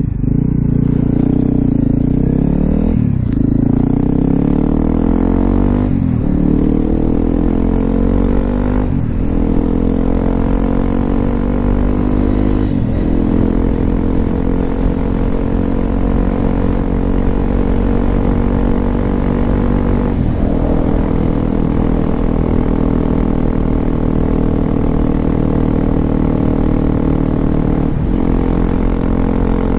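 Honda CRF250L's single-cylinder four-stroke 'thumper' through an FMF Q4 exhaust, accelerating uphill. The engine note climbs and then drops at each of four quick upshifts in the first thirteen seconds or so. After that it runs at a steadier pitch, with two more shifts later on.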